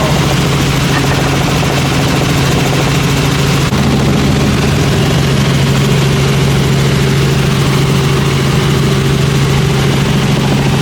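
Helicopter in flight: a loud, steady drone of engine and rotor, its tone shifting slightly about four seconds in.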